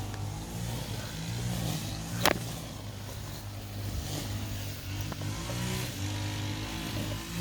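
Honda 25cc four-stroke line trimmer running under load in thick grass, its revs rising and falling every second or two, with one sharp crack about two seconds in.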